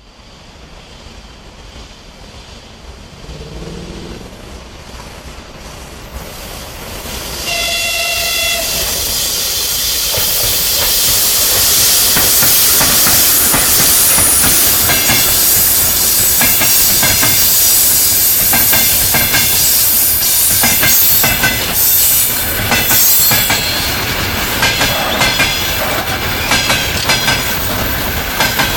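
A ČS7 (Škoda-built) electric locomotive and its express passenger train approach and pass at speed: the rumble builds for several seconds and a horn sounds once for about a second, about 8 seconds in. Then comes a loud, continuous roar of wheels on rail, thick with sharp clicks as the train runs over rail joints and station points.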